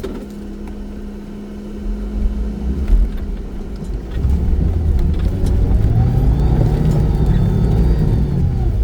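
Off-road car's engine running, then revving hard from about four seconds in, its pitch rising and holding high before easing near the end.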